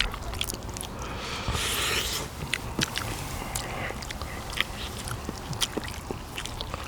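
Close-miked chewing and biting while eating gamjatang, pork bone soup, with many short wet clicks and smacks and a brief noisy stretch about a second and a half in.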